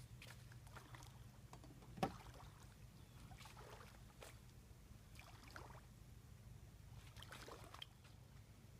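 Near silence: faint outdoor ambience with scattered soft ticks and light splash-like sounds, and one sharper click about two seconds in.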